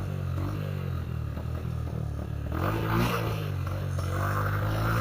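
Small motorcycle engine running at low revs while starved of fuel as the tank runs dry, wanting to stall. About halfway in the engine note and wind noise grow louder.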